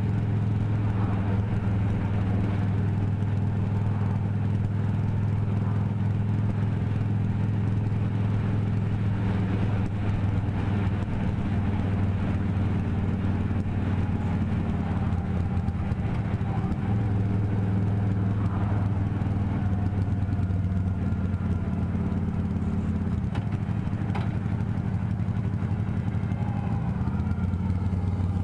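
A vehicle engine running steadily while under way, a low even hum with little change in pitch.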